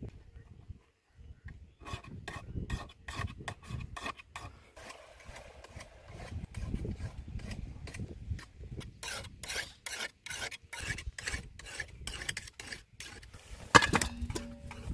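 Rapid, repeated rasping scrapes, about three strokes a second, starting about a second and a half in, like a blade or rough surface worked back and forth by hand. A single sharp knock near the end is the loudest sound.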